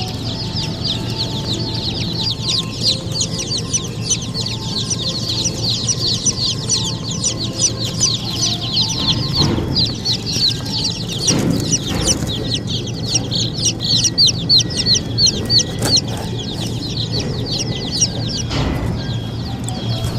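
A large crowd of baby chicks peeping continuously, many overlapping high-pitched cheeps, over a low steady hum. A few brief knocks come about halfway through and near the end.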